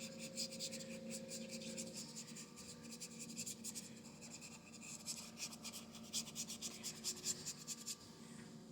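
Paintbrush bristles scratching on canvas in quick repeated strokes as acrylic paint is worked on, stopping about eight seconds in.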